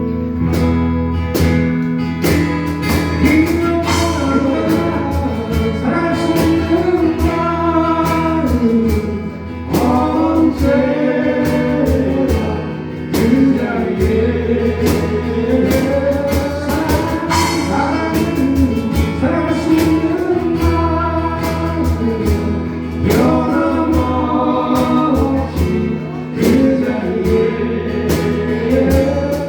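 A song sung with strummed acoustic guitar, more than one voice singing the melody together.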